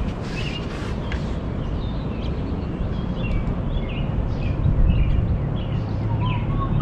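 Small birds chirping repeatedly, short high calls every half second or so, over a steady low rumbling noise.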